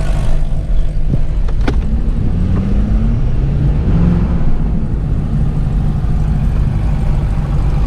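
Piston engine running steadily at idle, a low even drone, with one sharp click a little under two seconds in.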